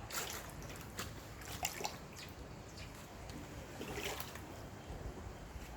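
Floodwater splashing and trickling, in irregular splashes every second or so over a steady low rush.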